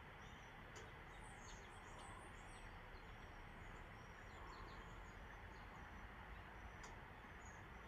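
Faint, scattered high chirps of small birds over a steady background hiss, with a couple of soft clicks.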